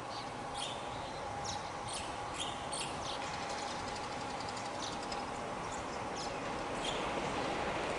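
Birds chirping in short scattered calls over a steady outdoor noise bed, while an approaching Taiwan Railways E1000-series push-pull Tze-Chiang express train grows gradually louder toward the end.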